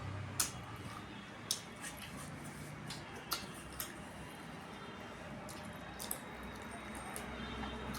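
Close-up eating sounds: wet chewing of rice and curry, with a handful of sharp mouth clicks and smacks spread through.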